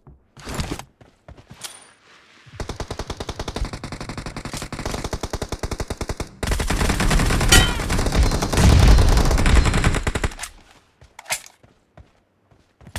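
Automatic gunfire from a team shooter video game. A few single shots come first, then rapid, steady fire. About halfway through it turns louder and heavier for some four seconds, and a short burst comes near the end.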